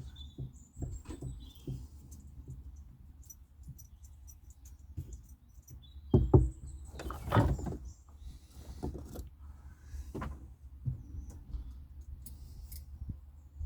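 Scattered knocks, clicks and rustles of hands handling parts and cable in a cramped space, with a louder clatter of knocks about six seconds in and another just after ten seconds.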